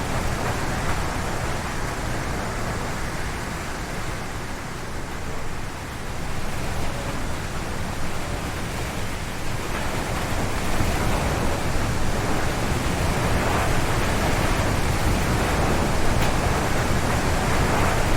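Strong wind gusting through forest trees: a steady rushing noise over a deep rumble. It eases slightly around five seconds in and swells louder from about ten seconds on.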